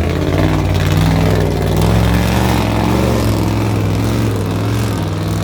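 Suburban's engine running steadily under power, a continuous low drone.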